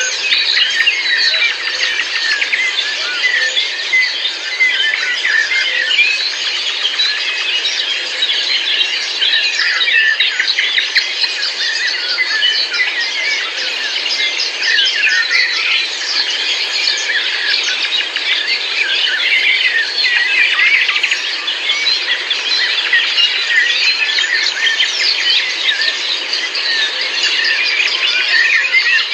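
Dense chorus of many small birds chirping and twittering at once, many calls overlapping without a break.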